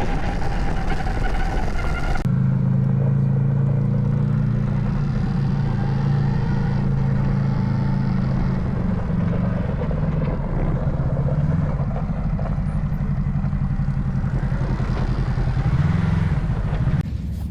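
Off-road side-by-side's engine running at a steady speed while driving, with wind and tyre noise. The sound changes abruptly about two seconds in to a steadier low engine drone.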